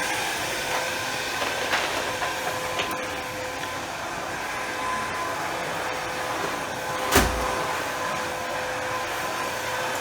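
Vacuum cleaner running steadily, a motor whine over a whooshing hum, with a single sharp thump about seven seconds in.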